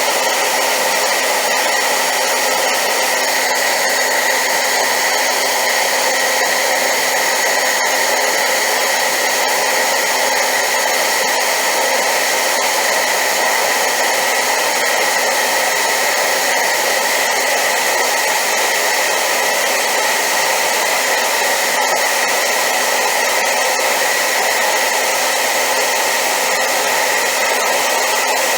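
Hair dryer running steadily on high power: a loud, unchanging rush of air with a steady high tone near the top of the sound.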